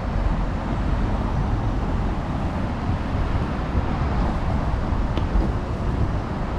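Steady street traffic noise with a deep rumble.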